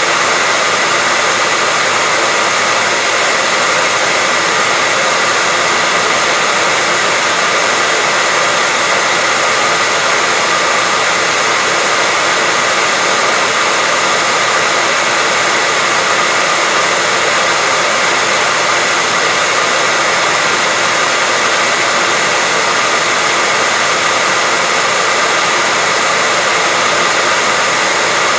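Hair dryer running steadily as a sleep sound for a baby: an even rush of blown air with a faint steady whine in it, unchanging throughout.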